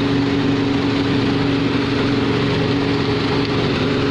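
Tractor-driven rice mill and polisher running: the tractor engine and the mill make a loud, steady droning hum that does not change.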